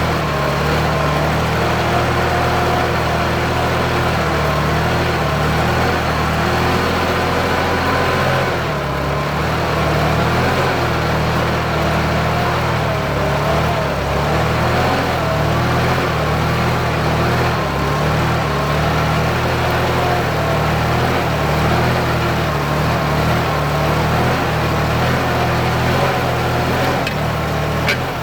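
Kubota tractor's diesel engine running steadily while plowing a rice paddy, with a slight dip about nine seconds in.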